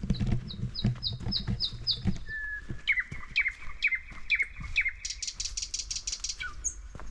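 Small forest songbirds calling: a run of about six short high notes, then about six lower down-slurred notes, then a fast high trill near the end. Footsteps crunch on the forest floor throughout, heaviest in the first two seconds.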